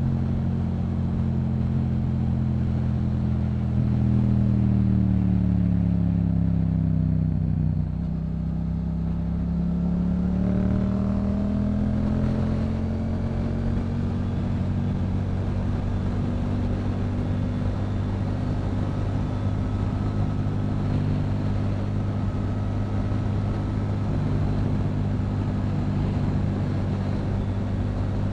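Yamaha MT-07's 689 cc parallel-twin engine through a Yoshimura aftermarket exhaust, under way at a cruise. About four seconds in, the engine note falls away as the throttle comes off. It climbs again over the next few seconds, then holds steady.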